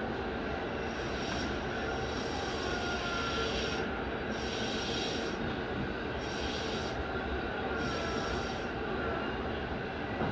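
Keihin-Tohoku Line commuter train heard from inside the car, running steadily with a faint, wavering wheel squeal that comes and goes over the rumble.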